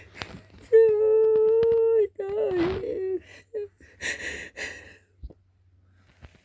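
A voice holding one long, steady, high call for over a second, then a shorter wavering one, followed by a few breathy hissing sounds.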